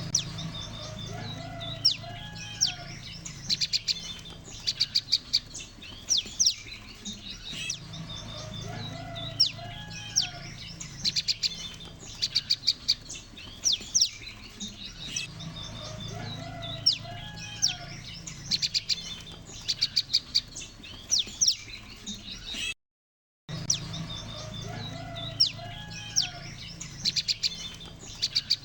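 A flock of prenjak lumut chirping and calling together in a dense chorus of sharp, high chirps and quick rattling note series, over a steady low hum. It is a looped lure recording that repeats every few seconds, with a brief dropout about 23 seconds in.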